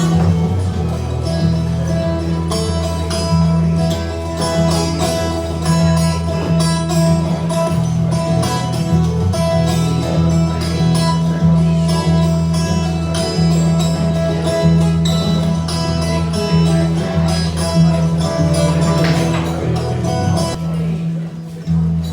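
Live band music with no singing, led by guitar over a steady bass line and a regular beat.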